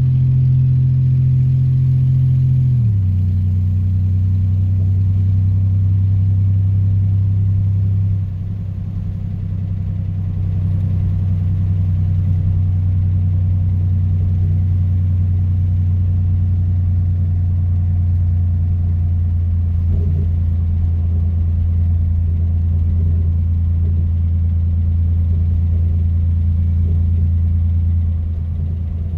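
1984 Oldsmobile 4.3-litre V6 diesel engine and exhaust running on the road. The engine note drops in pitch about three seconds in, then holds a steady drone. The exhaust is loud, which the owner puts down to a worn exhaust system that still needs a new pipe and muffler.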